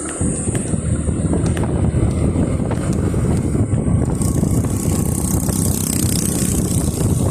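Motorcycle engine running while riding, with a steady low rumble and wind noise on the microphone; a rushing hiss grows stronger about halfway through.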